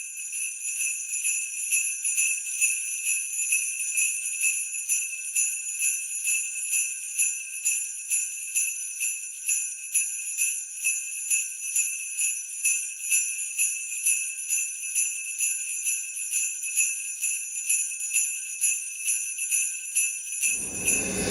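Small jingle bells shaken in a steady rhythm, about two to three shakes a second, with a bright ringing. Music comes in near the end.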